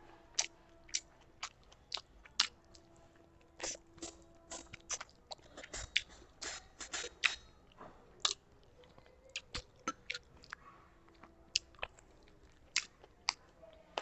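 Close-miked mouth sounds of eating rice and curry by hand: chewing with irregular wet smacks and clicks of the lips and tongue, several a second at times, with short pauses between mouthfuls.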